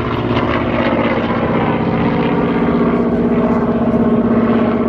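A World War II propeller fighter's piston engine flying low overhead, giving a loud, steady drone.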